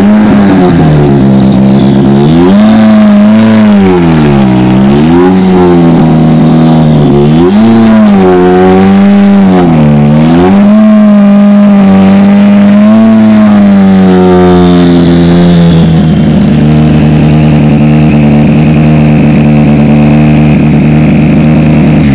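Hyundai i20 R5 rally car's 1.6-litre turbocharged four-cylinder engine, standing still and revved in repeated throttle blips, its pitch rising and falling over and over. About fifteen seconds in it settles to a steady idle.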